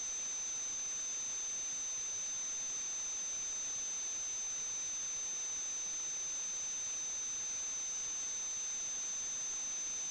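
Steady electronic hiss with a constant high-pitched whine, the noise of the sewer inspection camera's recording.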